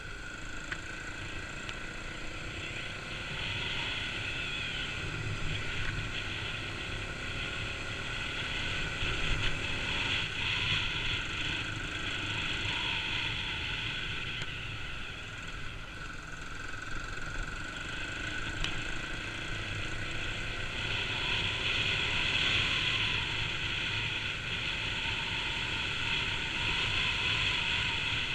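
Kawasaki KLX250 single-cylinder four-stroke dirt-bike engine running while riding a trail, the revs rising and falling a little, with wind noise on the microphone.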